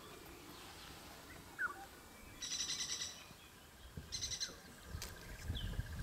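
Wild birds calling: a short rising chirp, then two bursts of rapid trilled calls, and a faint steady trill starting near the end.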